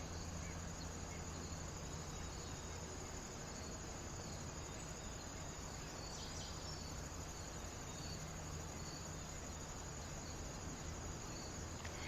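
Crickets chirping steadily in a continuous high trill, over a faint low hum.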